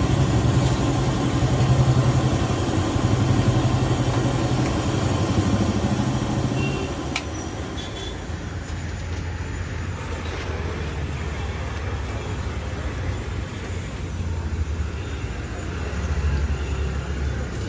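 A motor vehicle engine idling close by: a steady low hum that drops lower and quieter about seven seconds in, over street traffic noise.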